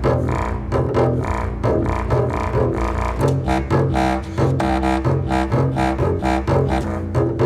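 Contemporary chamber music for contrabass clarinet and double bass: low, buzzing pitched notes cut by frequent short, sharp attacks in an uneven pulsing rhythm.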